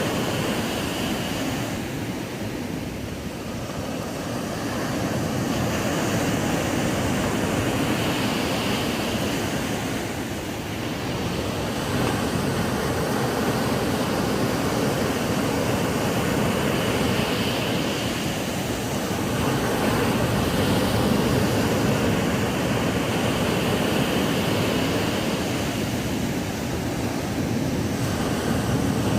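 Ocean surf breaking on a sandy beach: a steady wash of waves that swells and eases every several seconds.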